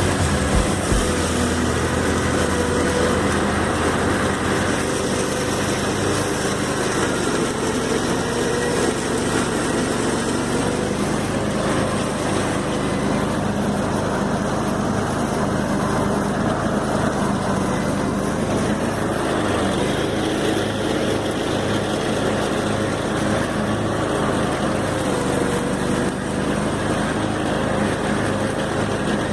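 Small lawn mower engine running steadily while cutting tall grass, its pitch wavering slightly.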